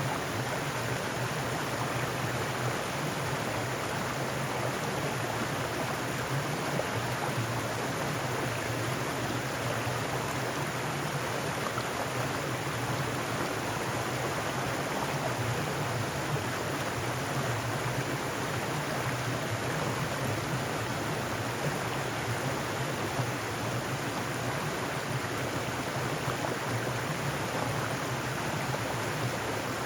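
Mountain stream running over rocks, a steady rushing of water.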